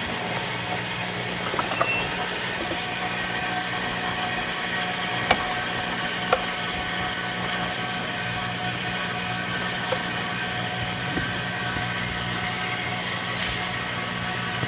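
Steady low hum with a hissy background, broken by a few sharp clicks about five, six and ten seconds in.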